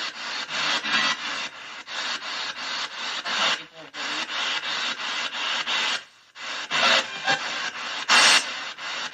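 Rapid, evenly chopped rasping noise, about six pulses a second, with two brief breaks partway through.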